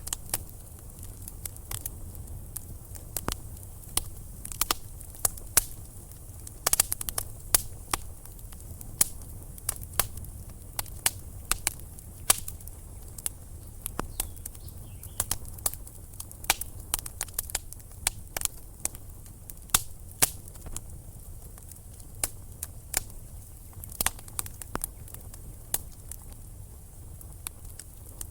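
Wood fire burning in a fireplace, crackling and popping irregularly. Sharp snaps come several times a second, some much louder than the rest, over a low steady rumble.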